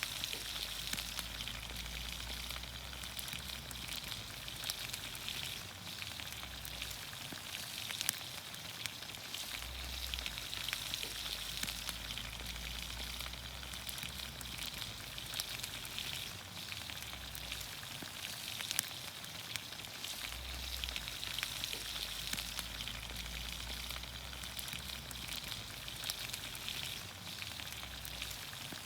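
Vegetables in olive oil sizzling steadily in a pan over a campfire, with scattered small pops and crackles.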